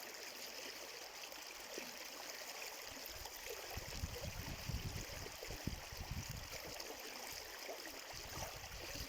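Steady rushing of a flowing stream, with irregular low rumbles joining in from about three and a half seconds in.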